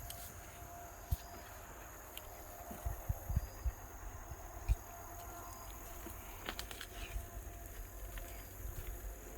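Rural outdoor ambience: steady high-pitched insect trilling over a low rumble, with a few soft thumps about three to five seconds in.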